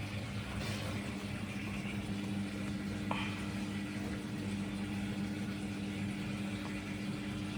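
Indesit Innex washing machine running on its spin cycle with a steady low hum, the loud spin noise that is its fault. A single click about three seconds in.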